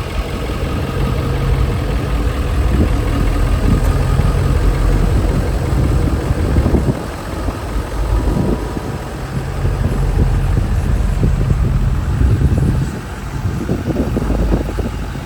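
A vehicle engine running with a deep, uneven rumble, which dips a few times and then comes back up.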